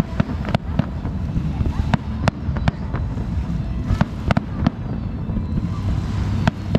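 Aerial fireworks exploding overhead: about ten sharp, irregularly spaced bangs and pops over a steady low rumble of background noise.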